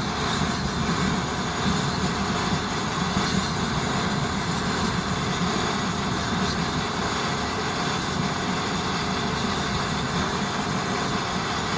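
Swiss Army petrol vaporising burner stove running with a steady hiss from its jet.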